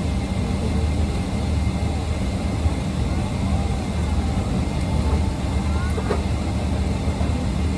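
Steady low rumble of a vehicle heard from inside its cabin, with a thin constant high tone over it and faint wavering voices in the background.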